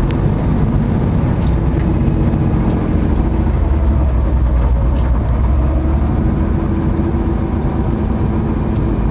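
Porsche 911 flat-six engine heard from inside the cabin as the car slows to a stop and settles to idle, with a few sharp clicks.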